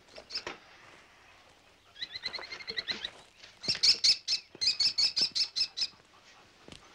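A bird calling: first a quick chattering run, then a louder series of sharp, evenly spaced chirps, about five a second, that stops a second before the end.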